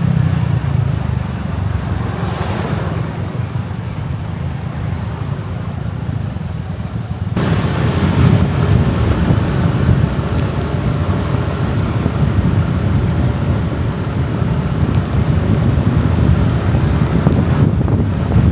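Wind buffeting the microphone of a moving motorbike, with the bike's running and road traffic underneath. The rumble grows louder about seven seconds in.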